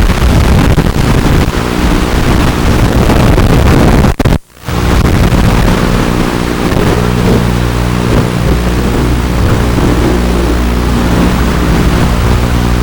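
Small FPV racing quadcopter's brushless motors (Sunnysky 1306 3100kv) running in flight, with a steady hum under heavy wind rush on the onboard microphone. The sound cuts out briefly about four seconds in.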